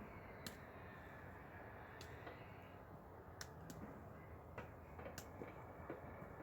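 Faint background hiss with a few scattered, irregular sharp clicks.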